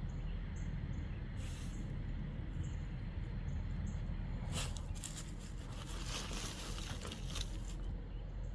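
Dog digging in soft dirt: scratchy scraping and rustling of paws in loose soil, in short spells that grow denser about halfway through, over a steady low rumble.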